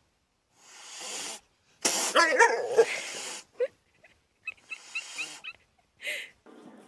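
A pet animal making short vocal sounds in several separate bursts with gaps between: one louder, wavering call, then small rising chirps.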